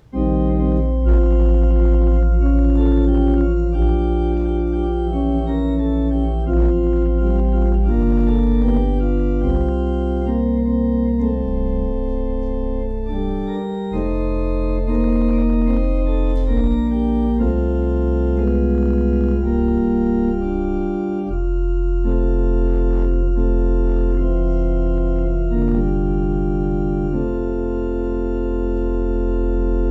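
Organ playing a slow piece of sustained chords over deep held bass notes, stopping abruptly at the end.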